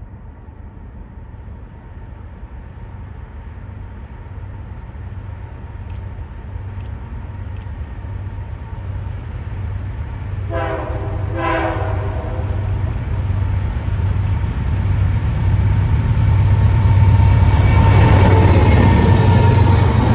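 An approaching train's diesel locomotives, their low engine drone and rumble growing steadily louder as they near. About halfway through, the locomotive horn sounds two short blasts.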